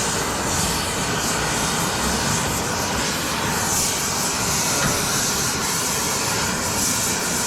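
Gas flame burning with a steady, loud hissing rush.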